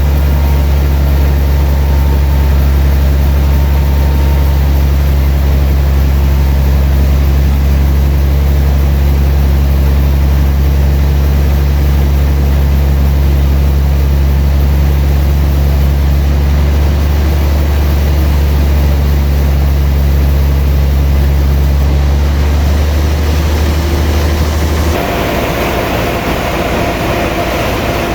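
Sawmill machinery running steadily with a loud, low hum. Near the end the low hum drops away and a noisier, higher sound with a few steady tones takes over.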